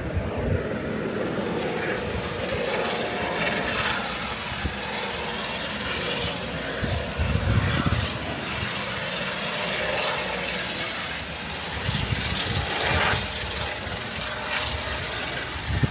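Steady drone of an aircraft engine, with low gusts of wind buffeting the microphone, strongest about halfway through and again near the end.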